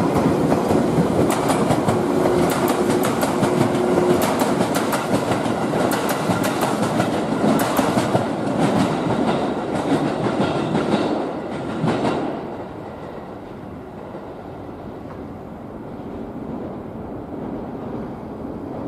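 Electric train passing close over the station pointwork, its wheels clattering over rail joints and switches in quick sharp clicks. The clatter dies away about twelve seconds in, leaving a quieter steady rumble as another train approaches.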